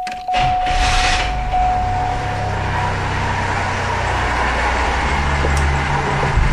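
Car engine cranking briefly and catching about half a second in, then running at a steady idle. A steady dashboard warning chime tone sounds over the first couple of seconds.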